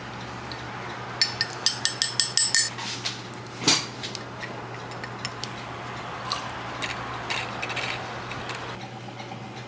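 A spoon stirring a matcha latte in a cup, clinking quickly against the sides for about a second and a half, then a single sharp knock. Softer clinks and handling of the cup and liquid follow.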